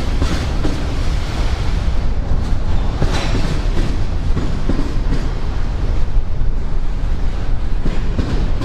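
Freight train moving slowly on the rails with a heavy, steady low rumble, broken by several sharp metallic clanks from the wheels and couplers.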